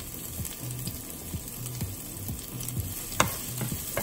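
Chopped garlic and green chilies sizzling in hot oil in a frying pan, a steady hiss with small crackles and pops. A spatula clacks once against the pan near the end.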